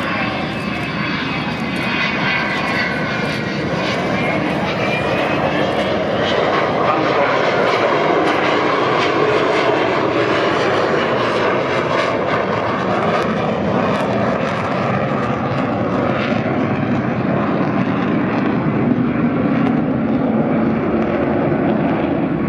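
Avro Vulcan XH558's four Rolls-Royce Olympus turbojets roaring as the delta-wing bomber flies its display. The noise swells over the first several seconds and then holds steady, with a whine falling in pitch a couple of seconds in.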